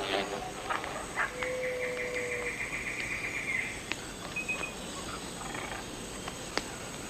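Rainforest animal calls. A rapid, high pulsed trill starts about a second in and runs for some two seconds, with a steady low whistle alongside it at first. A brief high note and scattered sharp clicks follow.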